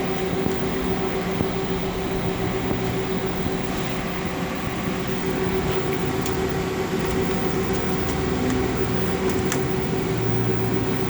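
TurboChef SOTA high-speed convection-microwave oven's cooling fans running steadily in cooldown mode: a constant whir with a steady hum tone.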